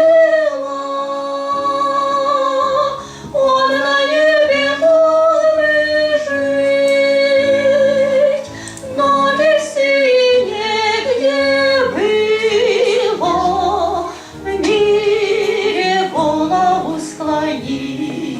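A woman singing a slow Russian Christian hymn, holding long notes with a wide vibrato, over a steady backing accompaniment, with short pauses between phrases.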